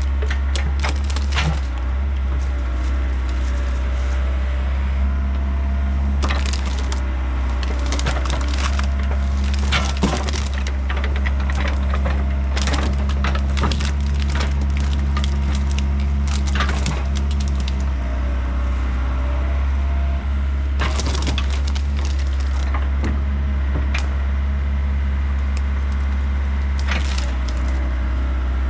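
Hickory wood cracking and splintering in repeated sharp clusters as it is broken up by a compact diesel excavator, over the machine's steady engine drone.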